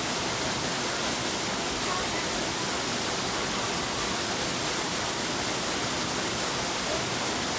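Steady rushing of a waterfall, an even roar of falling water with no change in level.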